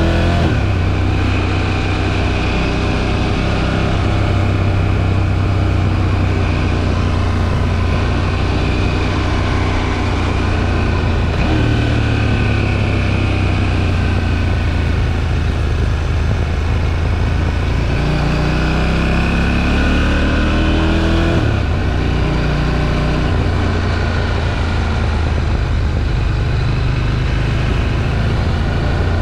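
KTM 790 Duke's stock-exhaust parallel-twin engine pulling on the road, its pitch rising under throttle and dropping sharply at each upshift: just after the start, about 12 seconds in, and about 21 seconds in. Wind noise runs underneath.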